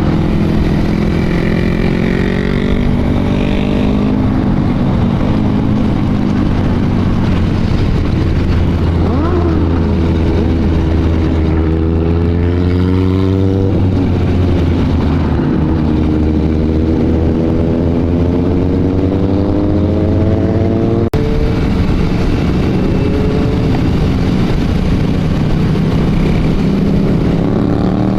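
Motorcycle engine running under way, its pitch rising as it accelerates and falling back several times, over a steady rush of road noise.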